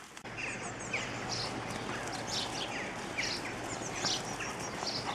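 Short bird chirps, about two a second, over a steady background hiss.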